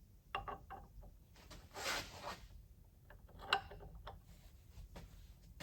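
Rummaging through small parts: a few quick metallic clicks and rattles, a short rustle about two seconds in, then scattered single clicks.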